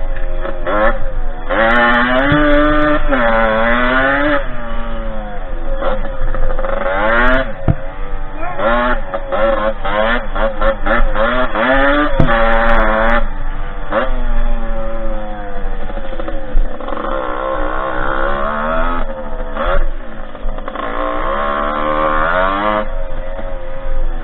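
Derbi 50cc two-stroke dirt-bike engine under way, revving up and falling back again and again as the throttle is worked, with a few sharp knocks along the way.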